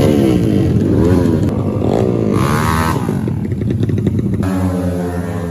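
Trail motorcycle engines revving up and down repeatedly, about once a second, with one sharper high rev a little past two seconds in, then settling to a steadier run near the end.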